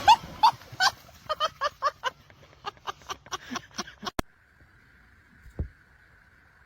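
A small animal gives a quick, irregular run of about a dozen short, high-pitched calls, which stop abruptly after about four seconds. After that there is only a faint steady hiss and one soft thump.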